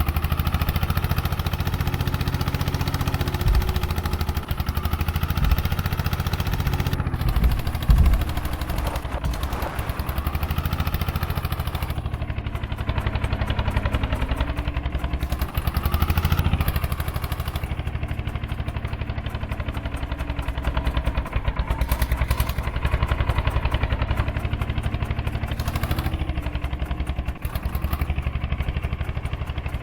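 Eicher 241 tractor's single-cylinder diesel engine running with an even, rapid firing beat. Its speed rises a little about halfway through, then eases back.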